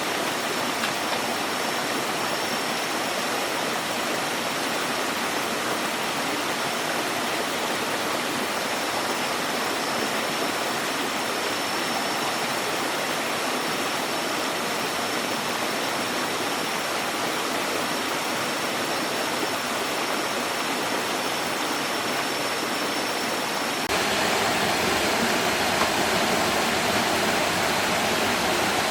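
Steady rushing water noise with no break, with a faint thin high tone running over it. About five seconds before the end it changes abruptly to a slightly louder, brighter rush.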